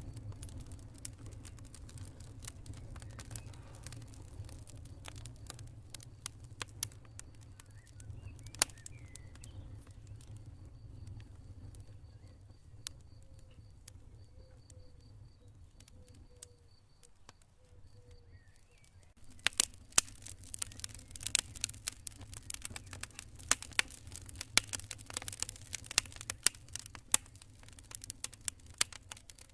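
Campfire burning with irregular crackles and sharp pops over a low steady rumble. The crackling thins out in the middle and turns dense again about two-thirds of the way in. A faint high pulsing trill runs through the quieter middle stretch.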